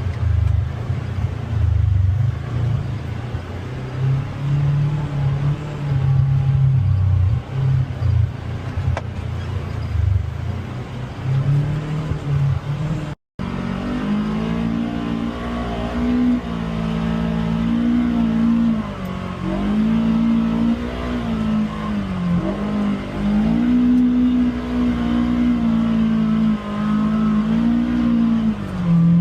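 Polaris Xpedition UTV engine running on a rough trail, with a deep rumble for the first part. After a brief dropout about 13 seconds in, the engine note comes through more clearly, rising and falling as the throttle is worked.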